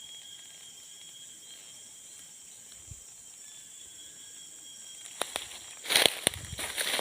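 A faint, steady high-pitched drone, then a run of sharp clicks and rustling handling noise that starts about five seconds in and is loudest about a second later.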